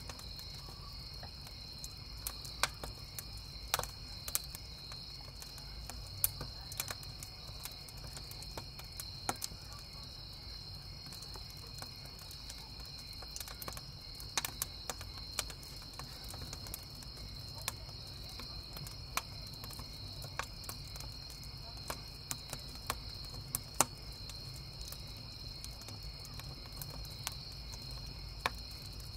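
Crickets chirping in a steady high trill over a burning wood campfire that crackles and pops at irregular moments, a few pops louder than the rest.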